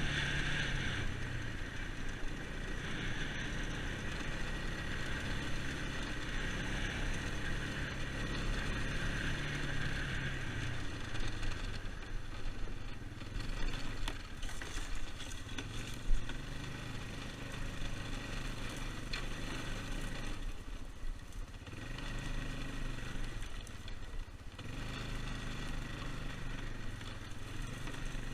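2001 Yamaha Bear Tracker ATV's single-cylinder four-stroke engine running while riding, its pitch rising and falling with the throttle. There is a single sharp knock about sixteen seconds in.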